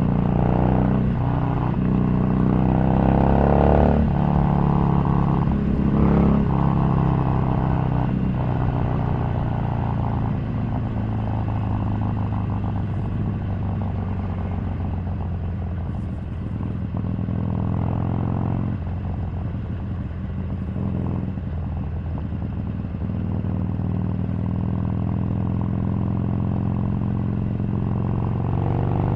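Harley-Davidson Sportster 883's air-cooled V-twin engine running under way, its pitch rising and falling with the throttle. There are a couple of climbs in revs in the first several seconds and a short drop in revs a little past the middle.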